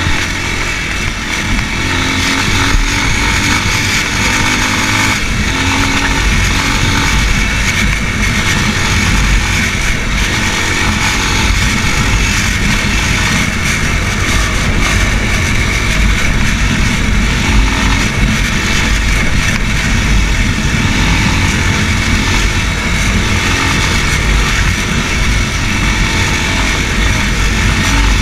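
Racer Panther 300 enduro motorcycle's engine running steadily under way, its note shifting a few times in the first several seconds.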